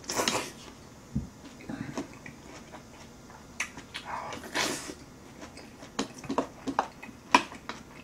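Close-miked eating sounds: a person chewing a big mouthful of noodles and kimchi with wet lip-smacking, a couple of short breathy bursts, and a run of sharp smacking clicks in the second half.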